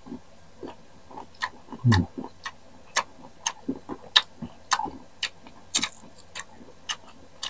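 Close-miked chewing of crunchy unripe green mango: a string of short, sharp, irregular crunches, about two or three a second.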